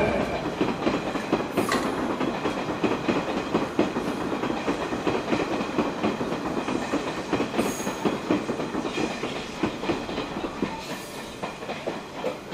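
Hanshin 8000 series electric train running over the pointwork, its wheels clattering in a rapid stream of clicks that slowly fade as it pulls away.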